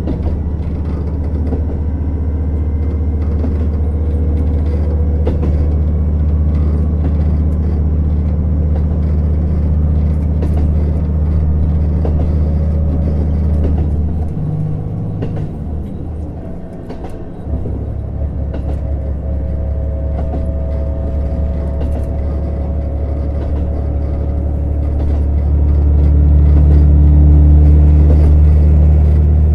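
Diesel engine of a JR Hokkaido KiHa 150 series railcar heard from on board, pulling with a steady low hum. About halfway through the engine note drops away for about three seconds, then comes back and grows louder near the end.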